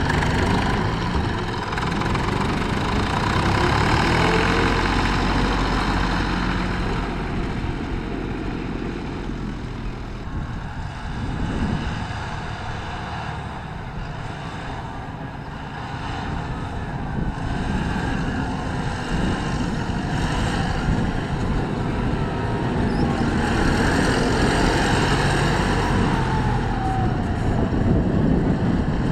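Tractor engine running steadily with a low rumble, easing off somewhat in the middle and growing louder again near the end.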